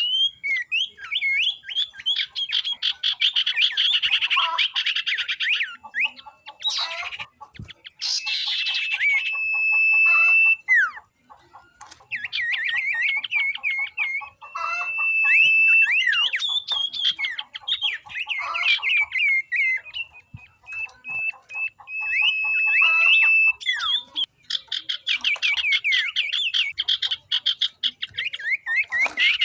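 A flock of young common iora (sirtu/cipoh) calling together: fast overlapping chattering trills and short whistles, with a long steady whistle held for a second or two about ten seconds in and again past twenty seconds, and brief pauses between bouts.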